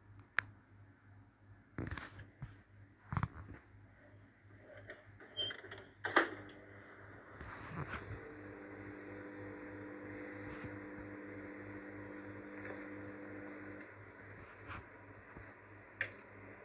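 Scattered clicks and knocks, with one sharp knock about six seconds in, then a microwave oven running with a steady hum from about eight seconds on.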